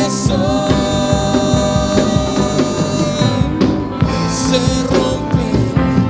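A church worship band playing, with drums, and a long held note through the first half.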